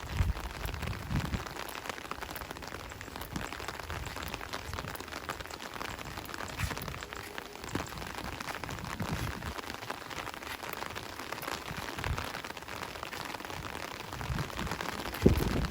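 Steady rain falling in an even patter, with a few brief low thumps; the loudest thump comes near the end.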